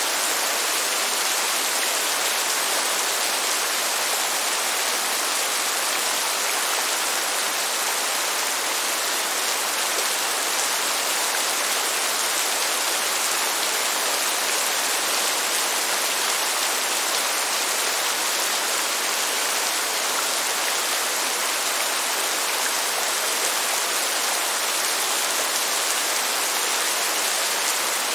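Steady rain: an even, unbroken hiss with no thunder claps.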